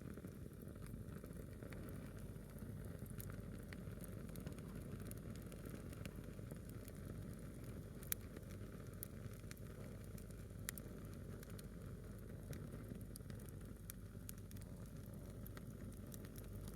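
A single log of firewood burning in a small campfire, crackling faintly with sparse sharp pops, the loudest about halfway through, over a low steady hiss.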